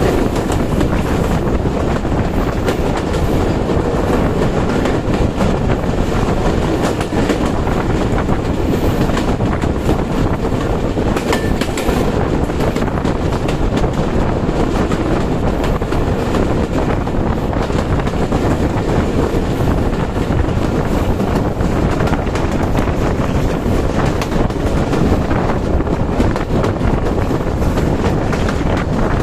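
Passenger train running by, its wheels clattering steadily over the rail joints.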